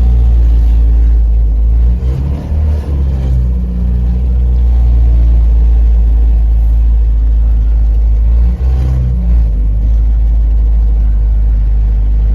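GAZ 21 Volga's four-cylinder engine running under load with a heavy low rumble, its speed rising and falling a few times as the car is driven. The engine has just been revived after years of sitting and tends to stall under load.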